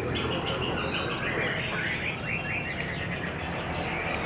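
Several caged crimson sunbirds (sogon) singing at once, with rapid high chirps and quick descending trills that are densest a second or two in, over steady low background noise.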